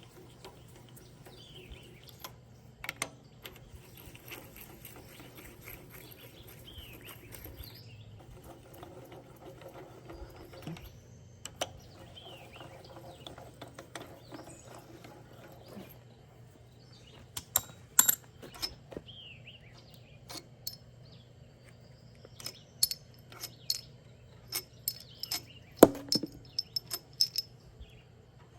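Scattered metallic clinks and taps, typical of hand tools and engine parts being handled, with a steady low hum. Birds chirp now and then.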